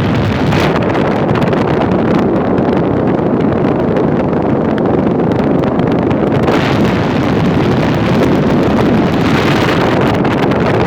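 Portable air conditioner running on high in cooling mode: a loud, steady rush of air from its fan, with the cold outflow buffeting the microphone.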